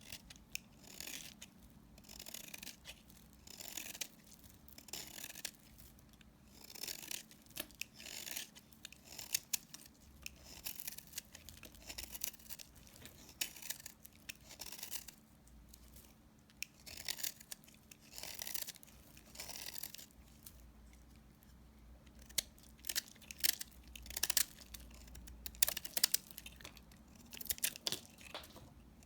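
Leftover bars of soap being cut with a blade: a long run of short, crisp, crunchy scraping strokes, one every half second or so, with brief pauses between runs.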